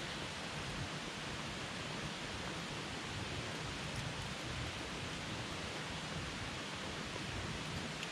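Campfire burning with a steady hiss and a couple of faint crackles.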